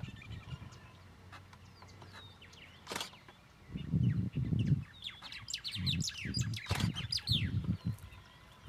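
Small birds chirping, with a flurry of quick falling chirps toward the middle. Bouts of low rumbling, louder than the birds, come about four seconds in and again in the second half, with a couple of sharp clicks.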